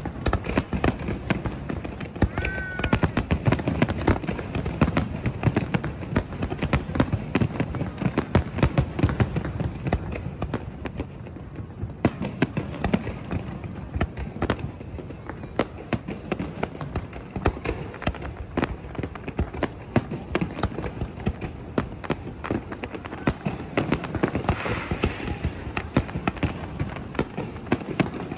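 A fireworks display with aerial shells bursting in rapid succession: a dense, unbroken run of bangs and crackles, heaviest in the first ten seconds or so.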